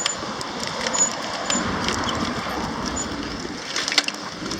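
Strong wind rushing over the microphone while riding a bicycle, an even noisy rush with scattered light clicks and rattles.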